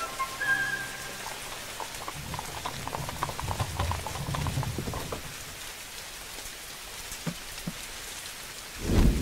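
Steady heavy rain falling on surfaces, with a low rumble about two to five seconds in and a loud, deep boom near the end.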